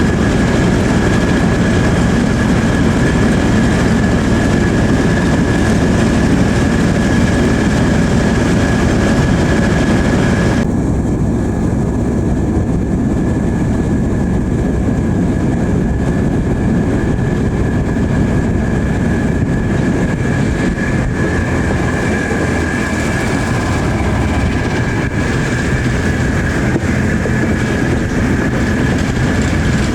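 Heritage diesel-hauled passenger train running, heard from on board: steady rumble and clatter of wheels on the rails, with a steady high tone above it. About ten seconds in, the sound turns suddenly duller as the high hiss drops away.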